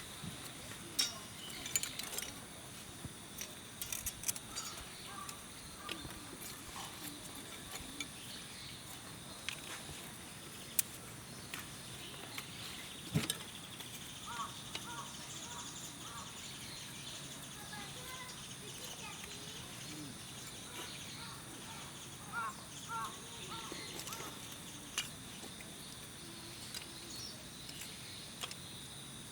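Scattered sharp clicks and snaps, the loudest a little after ten seconds and near thirteen seconds, over a faint steady hiss, with short bursts of repeated bird calls in the middle and near the end.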